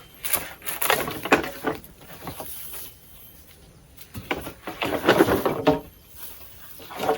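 Rustling and crackling of leaves and twigs in bursts: one near the start lasting about two seconds, another in the middle and a third starting near the end.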